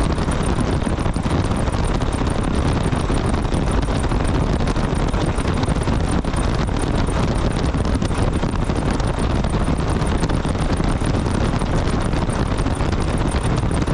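Steady running noise of a diesel truck engine at idle, even throughout and heaviest in the low end.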